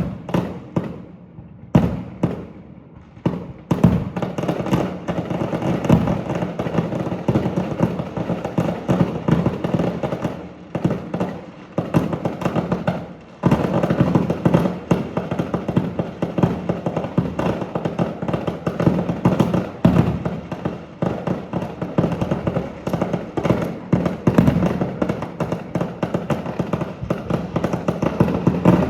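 Aerial fireworks display: a few separate bangs in the first seconds, then a dense, continuous barrage of rapid bangs and crackling, easing briefly about halfway through before carrying on.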